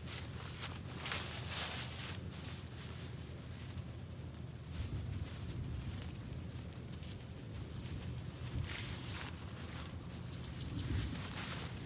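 Outdoor woodland ambience with a few short, high chirps: one about six seconds in, another a couple of seconds later, then a quick run of them near the end, over faint rustling.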